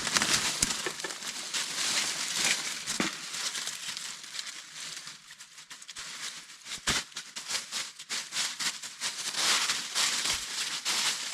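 Dry leaves and undergrowth rustling and crackling as they are handled and stepped on, with many short irregular crackles.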